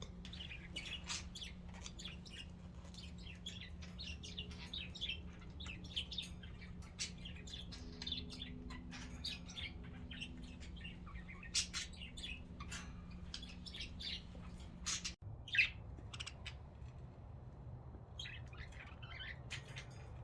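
Budgerigars chirping and chattering in a steady run of quick high calls over a low steady hum. The sound drops out for an instant about fifteen seconds in.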